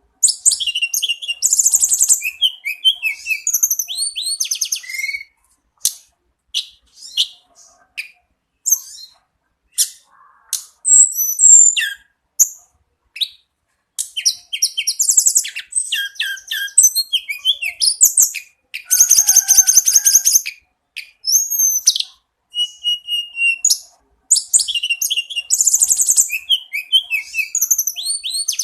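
Tledekan gunung (mountain tledekan songbird) singing a long, varied high-pitched song of rapid trills, whistles and chirps in phrases broken by short pauses, the same phrase sequence coming round again about 25 seconds later.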